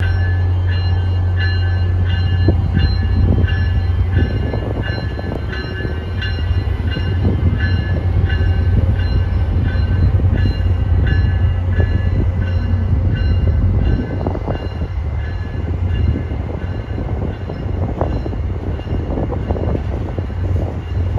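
Amtrak electric locomotive and its passenger coaches moving slowly through the station, with a steady low hum and the rumble and clanks of the wheels. A bell rings steadily about twice a second, then stops about two-thirds of the way through.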